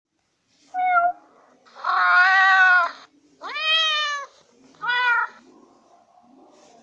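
Cat meows: four separate meows, a short one about a second in, a long drawn-out one, then two shorter ones, the third rising at its start.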